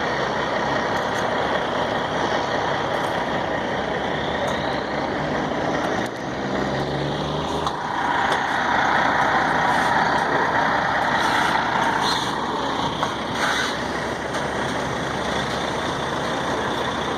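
Diesel engine of a 124-wheel heavy-haul truck running as the rig passes slowly. A louder rushing noise comes in about eight seconds in and lasts a few seconds.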